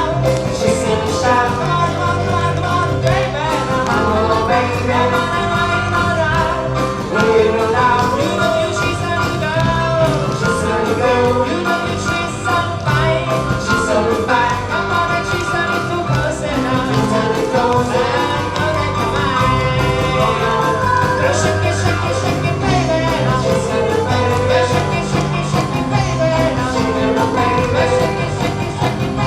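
A live band plays an oldies rock-and-roll song with a singer over steady bass and drums.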